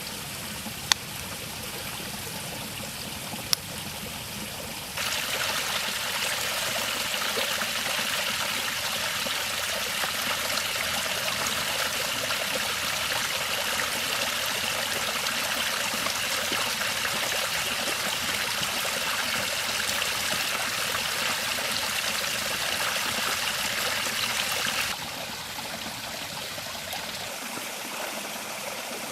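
River water flowing and rushing steadily, noticeably louder for most of the middle stretch, from about 5 s in until about 25 s in. Two short sharp clicks sound in the first few seconds.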